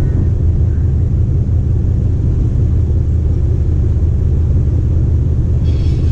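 MTR East Rail line R-Train running on the line, a steady low rumble heard from on board. A higher ringing sound with several pitches comes in near the end.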